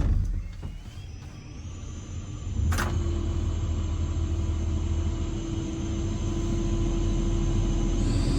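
A sharp thud, then a John Deere 350 excavator's diesel engine running steadily, heard from inside the cab. About three seconds in, a click is followed by the hum stepping up louder and holding steady.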